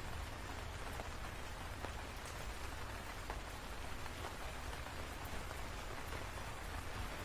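Steady rain: an even hiss with scattered sharp taps of single drops.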